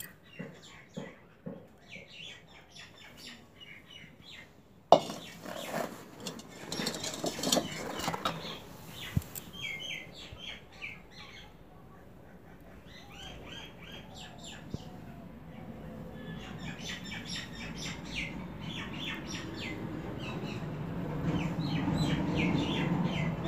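Small birds chirping in quick repeated bursts in the background. A single sharp knock comes about five seconds in, and a low rustling noise swells near the end.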